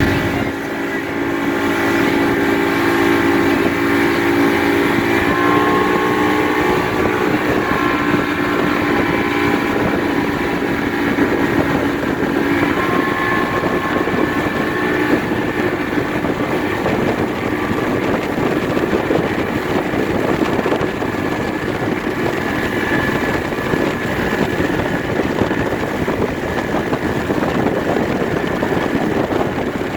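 Motorboat engine running under way, with a steady engine hum for the first dozen seconds that then gives way to a dense rushing noise, typical of a hull moving through water with wind.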